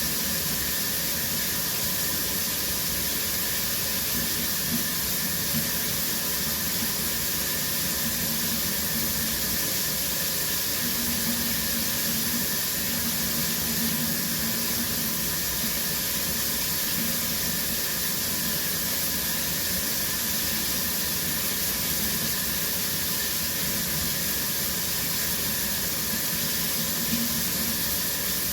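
Shower running steadily: water spraying from the head and falling in an even hiss.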